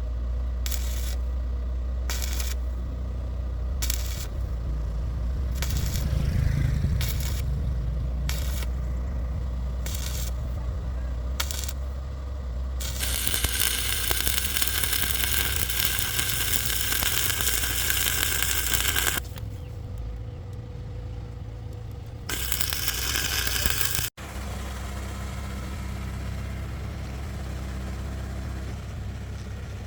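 Repeated metallic clinks and knocks, about one to two a second, over a steady low engine hum. This is followed by a long loud hiss, and a shorter hiss a few seconds later.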